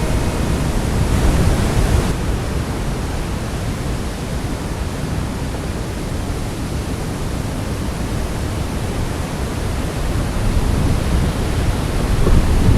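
Steady, loud rushing of falling water, a cascade such as Ryuzu Falls.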